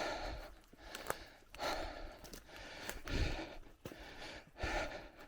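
A cyclist's heavy breathing close to the microphone, a loud breath about every second and a half, with short clicks between the breaths.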